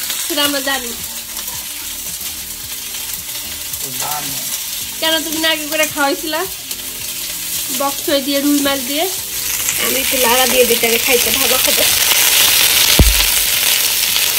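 Oil sizzling hard in a pan as chopped garlic and bok choy stems are stir-fried, with stirring. The sizzle grows louder in the second half, and there is a dull knock near the end.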